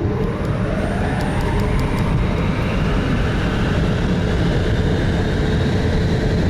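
Tesla Model 3 Performance's electric drive motors whining and climbing steadily in pitch under full acceleration down a drag strip, over heavy road and wind rumble inside the cabin.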